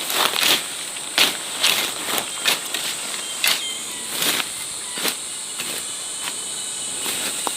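Insects chirring steadily at a high pitch, over about a dozen short rustling, scraping sounds at uneven intervals.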